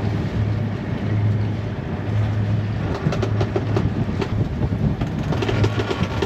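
Sailboat's inboard diesel engine running hard under throttle, a steady low drone under a noisy wash, with crackles coming in through the second half.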